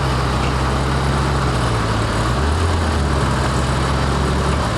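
Car engine running steadily at low revs: a constant low drone with small shifts in pitch about halfway through.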